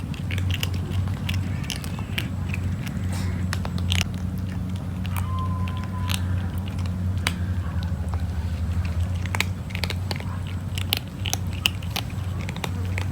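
Kitten chewing its food: a run of irregular small crunches and clicks, over a steady low hum.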